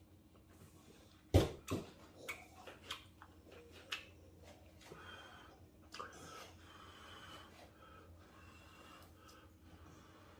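Eating instant ramyeon: noodles slurped and chewed, with a few sharp clicks and knocks, the loudest about a second and a half in.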